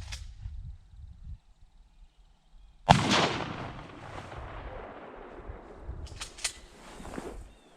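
A single shotgun shot about three seconds in, its report echoing and fading over more than a second: a follow-up shot to finish off a wounded duck.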